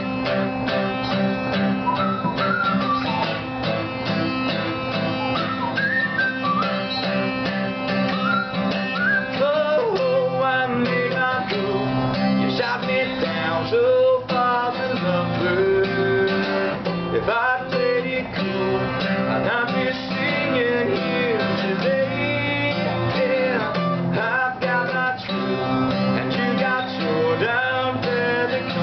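Acoustic guitar playing an instrumental passage of a song, strummed and picked, with a gliding melody line above it.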